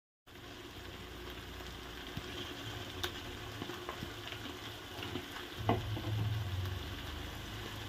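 Curd-based spice masala sizzling in hot oil in a kadhai as raw chicken pieces are dropped in, with a few soft knocks as the pieces land. The masala has cooked to the point where the oil is separating.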